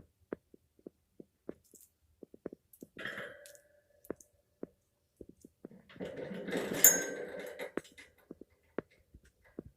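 African grey parrot making scattered short clicks, with a brief sound holding a steady tone about three seconds in. A longer, louder noisy sound with a few thin tones comes between about six and eight seconds.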